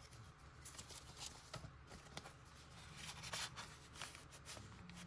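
Faint rustling and light clicks of paper pieces and small craft embellishments being handled and shuffled.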